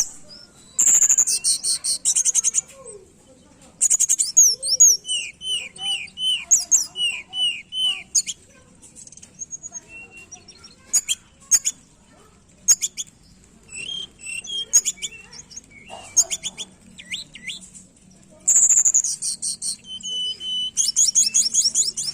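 A tledekan gunung singing in full voice: bursts of rapid, very high trills and chatters alternate with runs of short, clear, falling whistles, phrase after phrase with brief pauses between them.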